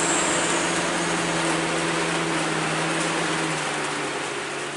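A truck engine running with a steady hum that drops slightly in pitch near the end, under a steady hiss of rain; the sound begins to fade at the end.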